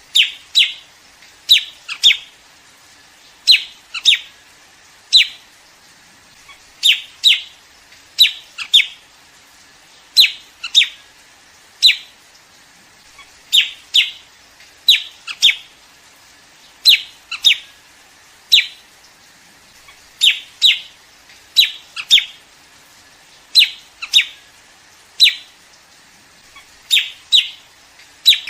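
Liếu điếu bird calling: sharp, short, down-slurred notes, often given in quick pairs, repeated about every second or so. This is a flock-calling recording of the kind used as a trapping lure.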